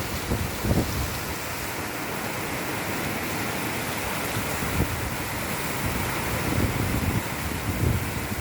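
Heavy rain falling in a steady hiss, with gusts of wind adding low rumbles every few seconds.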